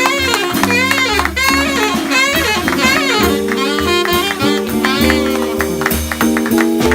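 Small jazz band playing live: a lead instrument bends and slides through notes over held chords, a bass line and drums with cymbals. From about three seconds in, the band holds sustained chords.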